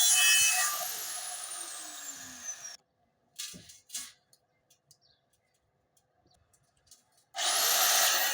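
Angle grinder spinning down after cutting steel: its whine falls in pitch over about two seconds, then the sound drops out, leaving two short knocks and a few faint ticks. Near the end the grinder starts again with a sharply rising whine.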